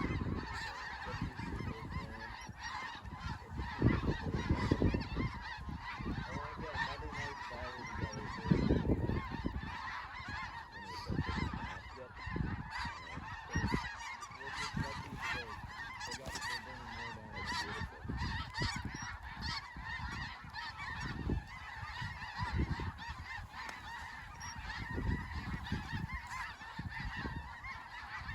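A huge flock of snow geese calling nonstop overhead, a dense unbroken din of honks. A low rumble comes and goes beneath it, loudest about 4 and 9 seconds in.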